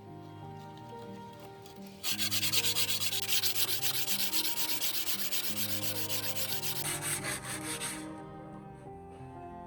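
Hand sanding with rapid, even back-and-forth abrasive strokes, starting about two seconds in and stopping abruptly about two seconds before the end, over background music.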